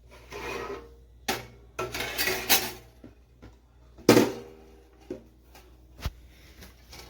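Irregular metallic clattering and knocking, like metal kitchenware being handled. The loudest is a single sharp clank about four seconds in that rings briefly.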